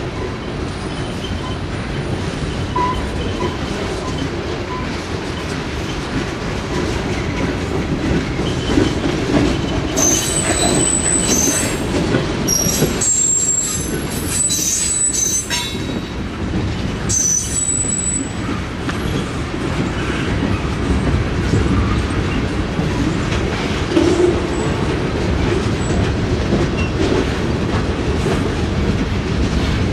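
A train rolling past, its railcars rumbling and clattering over the rail joints. Between about ten and eighteen seconds in there are several bursts of high-pitched wheel squeal.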